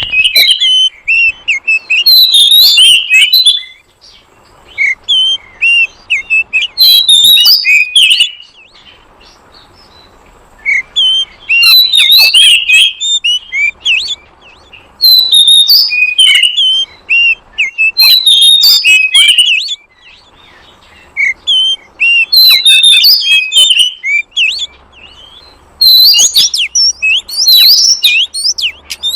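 Oriental magpie-robin (kacer) song: loud bursts of rapid, varied whistles and chattering notes, each phrase one to three seconds long, with pauses of a few seconds between. It is a lure recording played to draw in wild magpie-robins.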